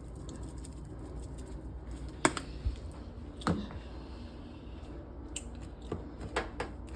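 Kitchen utensils clicking and knocking against cookware, a handful of sharp, separate knocks about two seconds in and again near the end, over a steady low hum.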